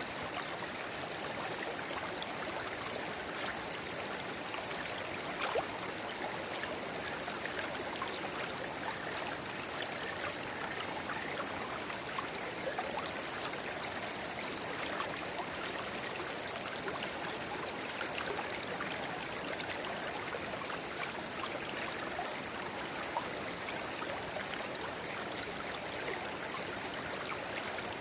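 River stream babbling steadily, with a small spring-fed runoff trickling into it; many small splashes and drips sound throughout.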